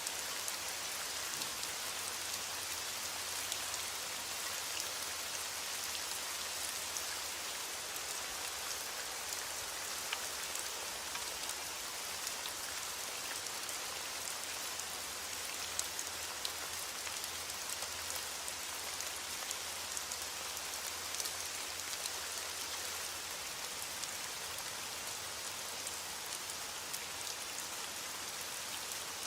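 Steady rain falling on a surface, a dense even hiss with many small sharp drop ticks scattered through it.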